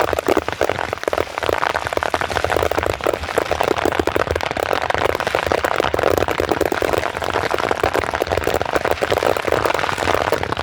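Fireworks crackling: a dense, continuous run of small pops and crackles, steady throughout with no single big bang.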